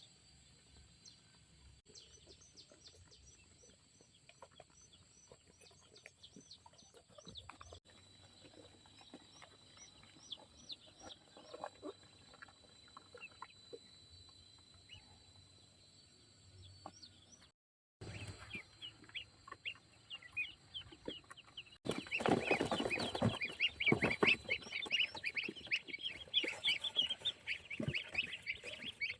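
Chickens clucking and calling over a steady high insect drone. The calls are faint and scattered at first, then after a short break they become a loud, dense flurry of many short calls for the last several seconds.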